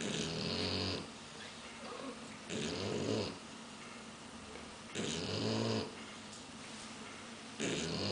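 Shar-Pei dog snoring: four snores about two and a half seconds apart, each lasting under a second.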